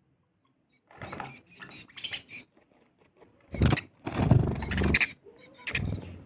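House sparrows chirping in short high calls, with a louder rustling noise for a second or two in the middle and again near the end.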